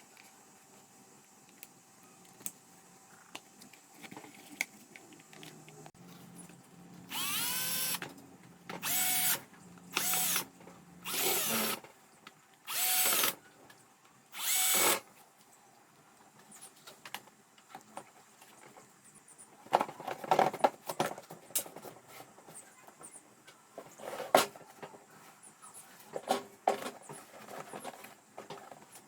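Electric drill run in six short bursts of about a second each, its motor pitch rising within each burst. Later come scattered clicks and knocks of parts being handled.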